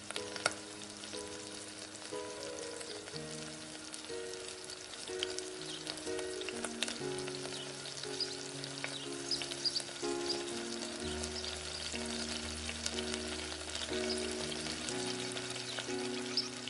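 Chopped onions frying in a miniature steel pan, sizzling and crackling steadily, with occasional clicks of a small spatula against the pan as they are stirred. A gentle melody of held notes runs underneath.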